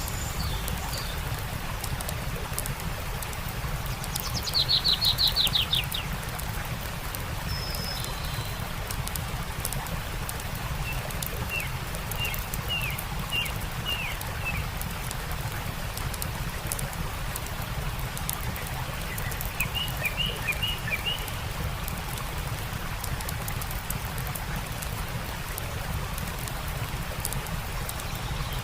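Songbirds calling over a steady rush of stream water, with small campfire crackles throughout. A rapid descending trill about five seconds in is the loudest call; short series of chirps follow around twelve and twenty seconds in.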